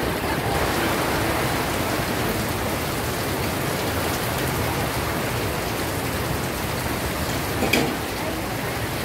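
Heavy rain pouring down steadily, with a single short knock near the end.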